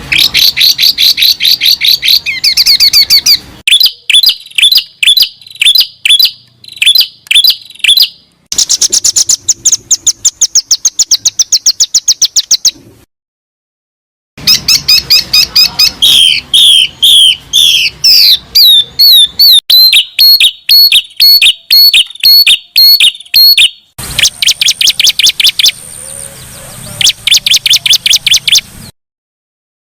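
Recorded songbird song played as training audio for caged songbirds: rapid, repeated high chirps and trills. It comes in several different phrases joined by abrupt cuts, with a brief silence about halfway through.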